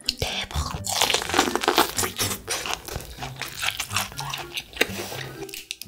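Close-miked chewing of a mouthful of corn on the cob: a dense run of wet, crackling clicks, thickest in the first two seconds, then thinning out.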